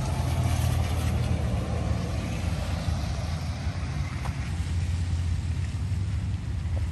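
Steady low outdoor rumble with an even hiss over it, with no distinct events.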